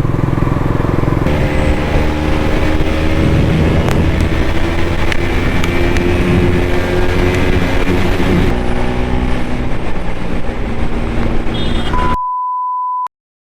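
KTM RC 200's single-cylinder engine running under way, its pitch rising and falling a little, with wind on the microphone. Near the end the sound cuts to a steady one-second bleep tone, then silence.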